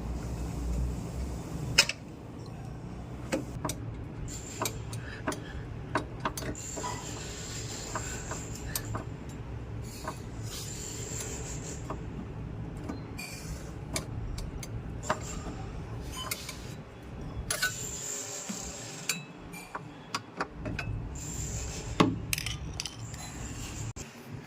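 Hand tools and metal parts clinking and knocking irregularly during repair work, with a few louder knocks, over a steady low hum.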